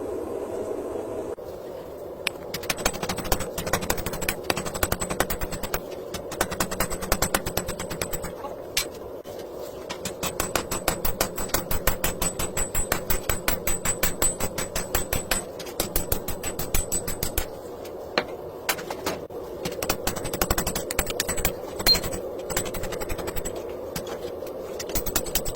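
Mechanical power hammer striking hot railway spring steel in a fast, even run of blows, several a second, starting about a second and a half in, over a steady machine hum.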